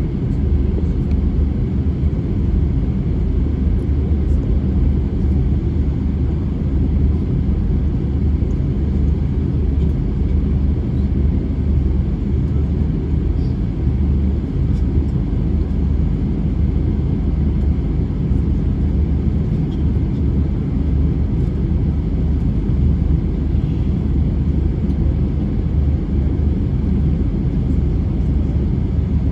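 Airbus A320 cabin noise while taxiing before takeoff: a steady low rumble of the engines and airframe heard from inside the cabin, holding level without building up.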